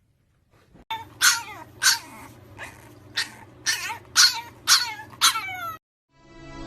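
A French bulldog puppy yelping: about eight short, high cries, roughly two a second, each falling in pitch. Soft music fades in right at the end.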